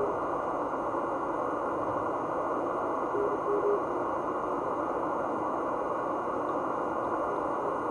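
Icom IC-7600 transceiver receiving the 15 m (21 MHz) band in CW mode: a steady hiss of band noise squeezed into a narrow low band by the CW filter. A faint Morse code tone keys a couple of short elements a little after three seconds in.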